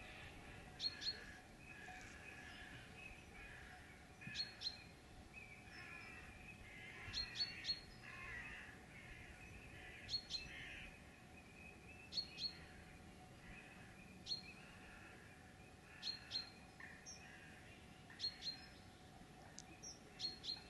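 Woodland birds singing: a sharp, high call, often given twice in quick succession, repeats about every two seconds over a softer chorus of other birdsong.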